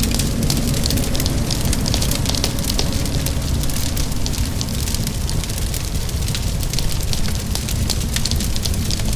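Crackling fire with many small irregular pops and snaps, over a steady wash of rain and a low, even rumble.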